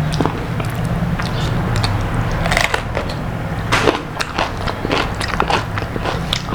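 Close-miked eating of crispy fried food: irregular biting, crunching and chewing clicks over a steady low hum.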